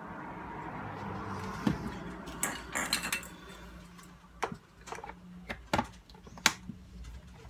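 Small hard parts and tools being handled on a work surface during disassembly: a rustle over the first few seconds, then a run of separate sharp clinks and knocks.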